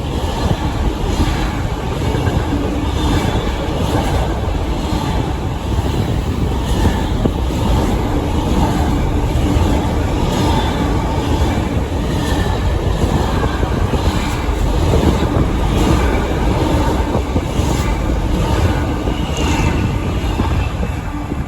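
A train passing on the track: a steady rumble, with wheels clicking now and then over rail joints.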